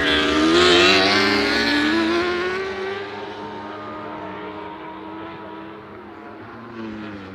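Racing motorcycle passing at high revs. It is loudest about a second in, then its engine note falls as it goes by and fades into the distance.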